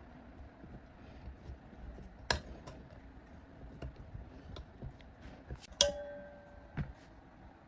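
Small metal parts clicking and knocking as they are handled, with a sharp clink a couple of seconds in and a louder one about six seconds in that rings with a short tone for about a second, cut off by another knock.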